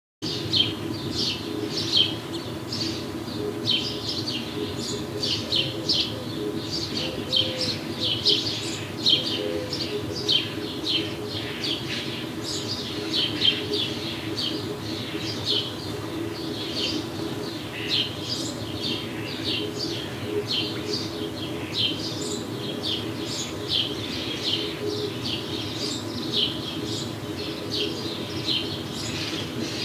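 Many small birds chirping in a steady, busy stream of short, high calls, over a steady low hum.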